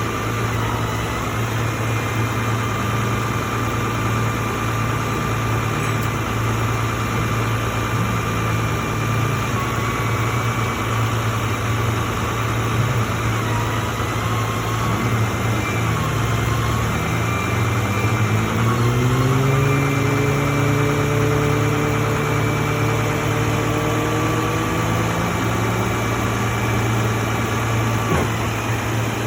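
A vehicle engine idling steadily, while a little past halfway a second engine speeds up, its pitch rising slowly over several seconds as the vehicle accelerates.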